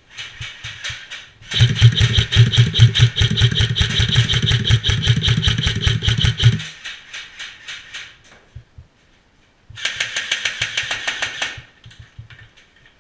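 Airsoft electric guns firing on full auto as rapid, evenly spaced clicks: a long burst of about five seconds starting a second and a half in, with a low buzz under it, then a shorter burst of about two seconds near the end.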